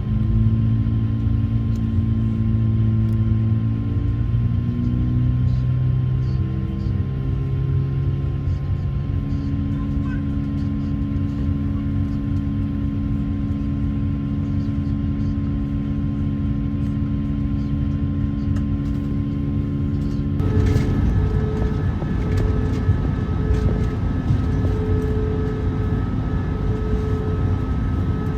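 Airbus A220's Pratt & Whitney PW1500G geared turbofan engines heard from inside the cabin, their tones rising in pitch over the first several seconds and then holding steady. About twenty seconds in, the sound switches abruptly to a louder rushing noise with higher tones.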